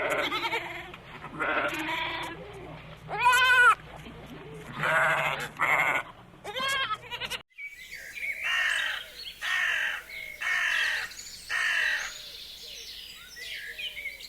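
Bleating from goats or sheep: several wavering calls in the first half. Then, after an abrupt cut, a different recording with a run of short, similar animal calls about once a second.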